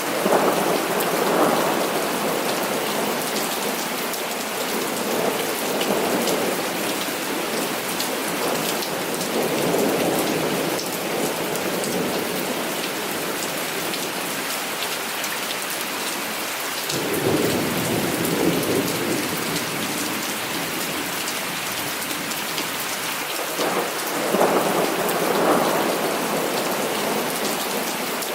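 Heavy rain falling steadily, with rolls of thunder rumbling in and fading out again: one at the start, others about a third of the way in, in the middle, and near the end.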